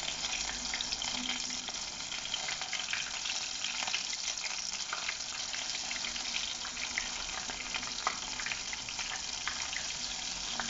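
Flour-battered prawns deep-frying in hot oil: a steady sizzle with scattered small crackles.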